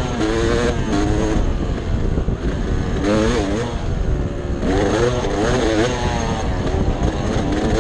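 Dirt bike engine revving up and down while being ridden, in repeated surges of throttle with short let-offs between them.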